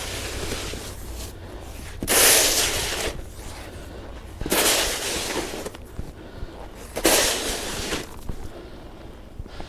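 Snow shovel scraping and pushing snow across a driveway, three strokes about two and a half seconds apart, each starting sharply and lasting about a second.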